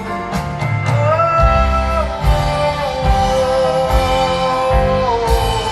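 Live band music: a held, wordless sung melody that glides between notes, over guitar, bass and a steady drum beat.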